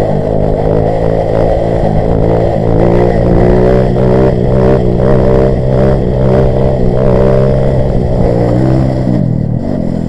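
A Grom-clone mini bike's single-cylinder engine is held at high revs through a wheelie, its pitch wavering with the throttle. The pitch drops away about nine seconds in as the throttle closes. A low wind rumble runs under it.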